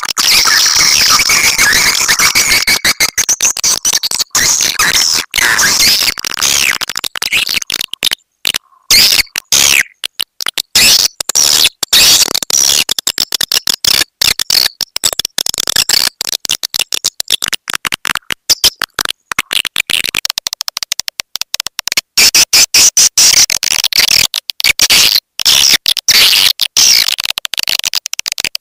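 Recorded swiftlet call sound used to lure swiftlets: a dense, loud mass of high-pitched twittering chirps, broken up by frequent brief dropouts.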